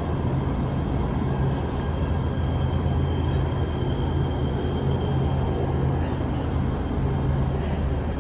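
Los Angeles Metro light rail train running: a steady low rumble with a faint, steady high whine.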